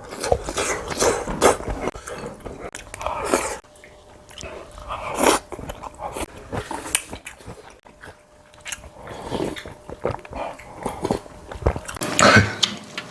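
Close-up eating sounds of people having pork-backbone soup with cabbage greens: irregular chewing, slurping and lip-smacking, with short sharp clicks scattered throughout.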